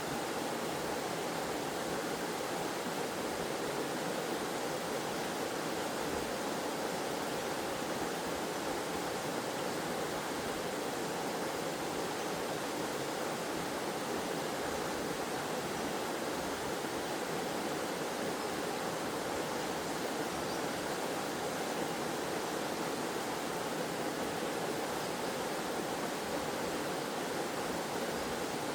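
Small forest waterfall, water splashing and rushing in a steady, unbroken stream.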